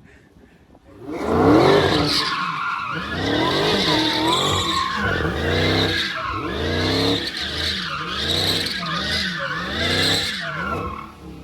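Dodge Charger Hellcat's supercharged 6.2-litre V8 revving hard while doing donuts, the tyres squealing and skidding. The engine note rises and falls over and over as the car circles. It starts about a second in.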